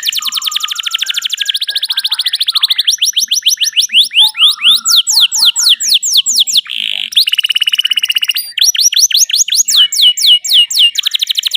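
Domestic canary singing continuously in rapid trills: runs of quick repeated notes, some sweeping steeply down in pitch, switching to a new trill every second or two, with a short buzzy note about seven seconds in.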